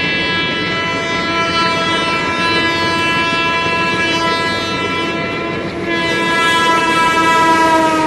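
Indian Railways passenger train rushing past at speed, its coaches clattering over the track, under a long steady multi-tone train horn that grows louder and drops in pitch near the end.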